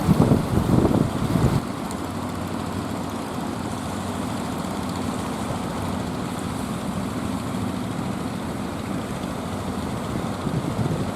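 Steady low drone of a motor vessel's engine running at an even speed, with a louder rush of noise over it for the first second and a half.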